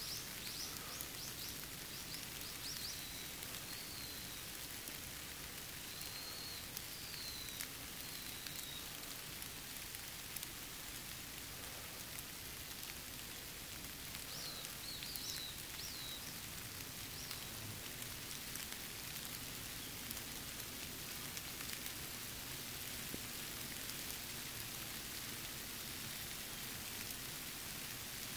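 Steady rain falling, a hiss with many single drops tapping close by. A bird gives a few groups of short high chirps in the first half.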